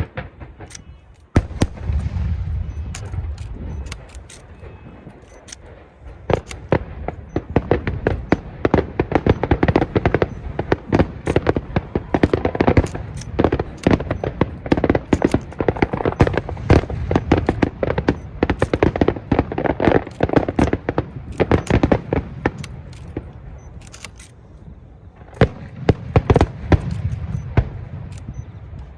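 Fireworks going off in rapid, crackling volleys of sharp reports over deep booms, like a barrage. The reports thin out briefly a few seconds before the end, then another rapid flurry follows.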